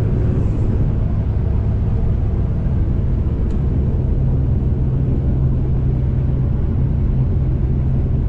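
New Holland CX5090 combine harvester running steadily, a constant low drone.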